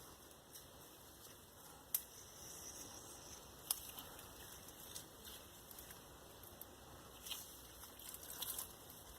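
Faint handling of raw marinated steak: soft wet squishing and rustling, with two sharp clicks about two seconds and nearly four seconds in.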